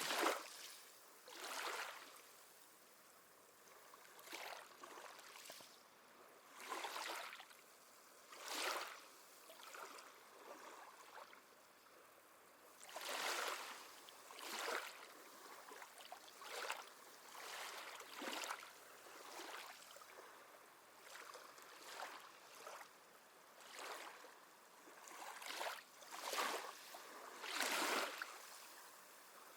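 Gentle sea waves lapping: short swishing swells of water that rise and fade every second or two, some louder than others.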